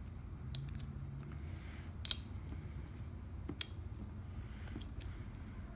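Small metal parts of a mortise lock clicking and tapping as they are handled and fitted into the lock case, with two sharper clicks about two seconds and three and a half seconds in.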